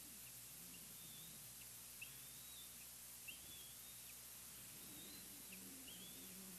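Faint high bird chirps, short notes sliding up and down, scattered over a steady outdoor hiss; a low soft call joins about five seconds in.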